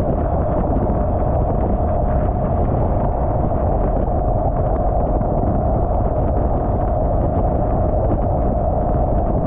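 BMW R1200GSA motorcycle riding at motorway speed: a steady roar of wind on the microphone over engine and road drone.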